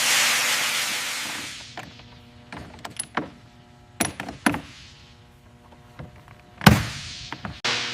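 A loud burst of hiss that fades over about two seconds, followed by scattered sharp clicks and knocks and two heavier clunks near the end, over a faint steady hum.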